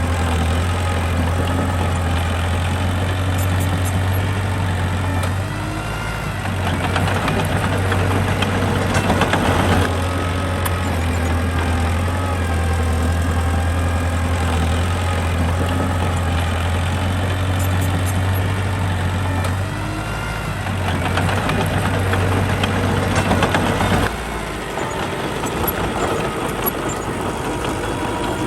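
Diesel engine of a mini bulldozer running steadily as it works. Its note dips briefly twice and changes near the end, with rattling and clanking in between.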